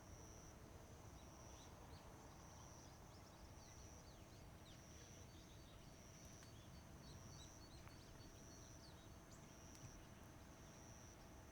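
Faint outdoor ambience. An insect sings in a high trill that pulses on and off roughly once a second, with scattered short bird chirps in the middle, over a low steady rumble.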